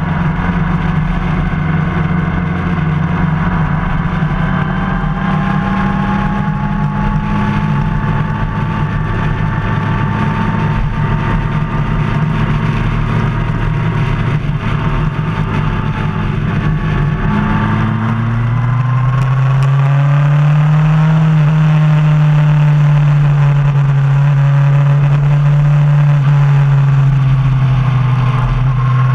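Motorcycle engine running steadily while riding at road speed, heard from the bike itself. About two-thirds of the way in, the engine note changes and gets louder, rising briefly in pitch before settling into a steady run again.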